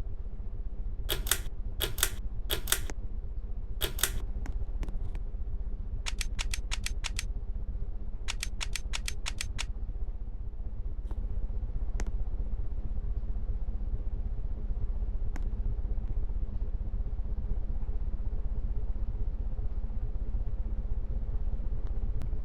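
Ceiling fan running with a steady low hum. In the first ten seconds there are sharp clicks: four louder ones about a second apart, then two quick runs of rapid clicking. A single click follows near the middle.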